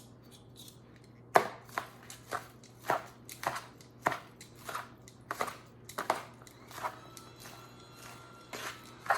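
Utensils mixing a chopped salad with mayonnaise and dressing in a bowl: a steady run of knocks against the bowl, about two a second.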